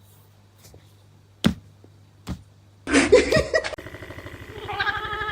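A quiet low hum broken by two sharp knocks. About three seconds in comes a short loud burst, then a fast, even low pulsing. Near the end a cat meows over the pulsing.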